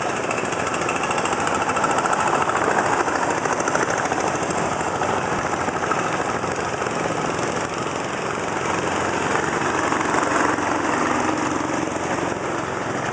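Motor boat's engine running steadily with a loud, rattling chug as the boat moves along.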